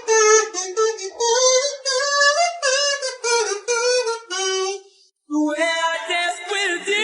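Music with a high-pitched singing voice in short, choppy syllables. The voice breaks off about five seconds in, and another sung phrase starts that rises in pitch.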